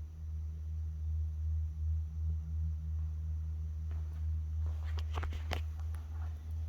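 Steady low hum, with a few sharp clicks about five seconds in.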